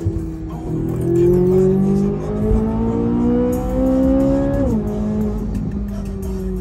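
C8 Corvette Z06's flat-plane-crank V8, heard from inside the cabin under hard acceleration: its pitch climbs steadily for a few seconds, then drops sharply with an upshift and settles into a steady drone.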